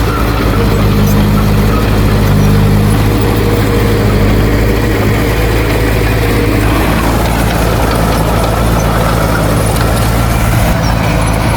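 Heavy diesel earthmoving machinery running steadily, with a second, higher engine note over it for roughly the first half that fades out around six or seven seconds in.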